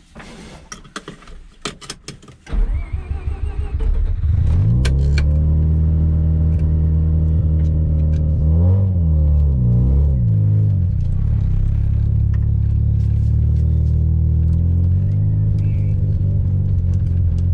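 Mazda RX-7 FC's 13B two-rotor turbo rotary engine heard from inside the cabin: a few light clicks, then the engine starts about two and a half seconds in with a short rising whine, settles into a steady idle and is blipped briefly twice in the middle.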